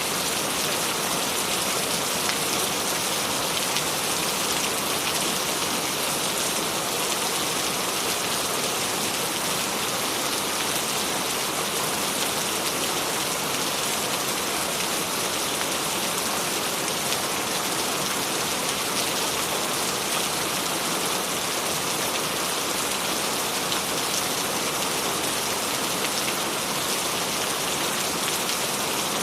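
Steady rain falling on a surface, a constant hiss of many drops with no thunder or change in intensity.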